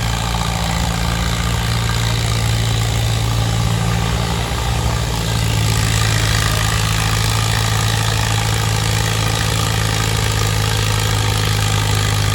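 Antique tractor engine running steadily at low speed. About five seconds in, after a brief dip, its note settles slightly lower and a little louder.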